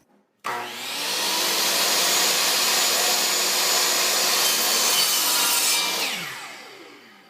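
Electric power tool cutting 3/4-inch plywood: the motor starts suddenly, runs steadily for about five seconds, then winds down with falling pitch as it coasts to a stop.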